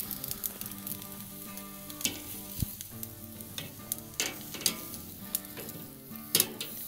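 Steaks sizzling as they sear over very hot charcoal on a kettle grill's grate. Several sharp clicks of metal tongs against the grate and meat as the steaks are flipped.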